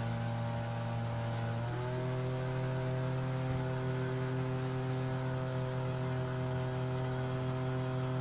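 Outboard engine driving a jet boat, running at a steady cruise with a droning tone; its pitch steps up slightly about two seconds in, then holds.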